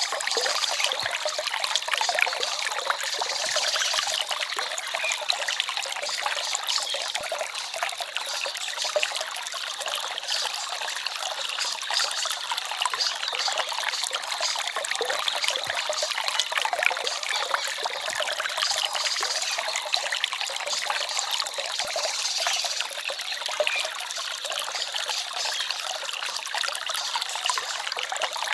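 A small forest stream babbling and trickling steadily over stones, a light splashy water sound with little deep rumble.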